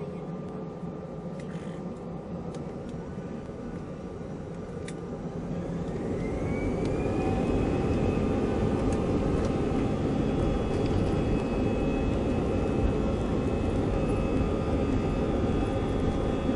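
Airbus A320-216's CFM56 jet engines spooling up for the takeoff roll: about five seconds in, a whine rises in pitch and the engine noise grows louder, then holds steady at takeoff thrust.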